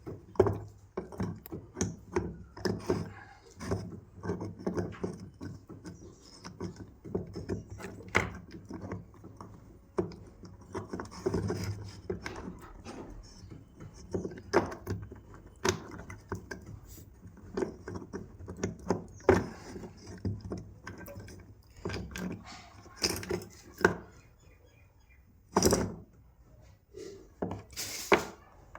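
Irregular knocks, clicks and light rattles of metal and plastic parts and tools being handled while a 2-26 rotary hammer drill is worked on. There are sharper knocks a little before the end, and no motor running.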